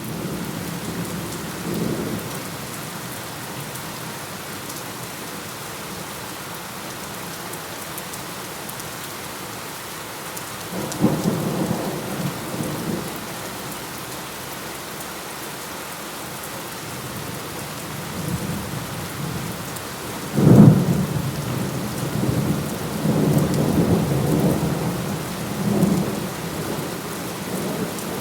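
Steady rain with thunder rolling over it: a rumble about a second in, another around a third of the way through, then the loudest, sudden clap about two-thirds through, followed by several rolling rumbles.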